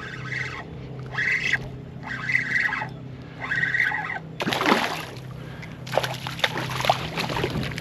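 A fishing reel is cranked in rhythmic swishes about once a second. Then water splashes and slaps as a hooked fish fights near the kayak, over a steady low hum.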